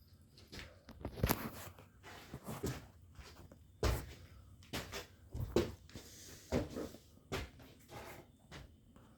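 Irregular knocks, bumps and clicks of objects being handled at close range, about a dozen, the loudest about four seconds in and again around five and a half and six and a half seconds in.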